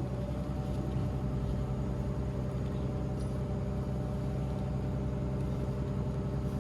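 Steady low mechanical hum, made of several even tones that hold unchanged throughout, like a motor running.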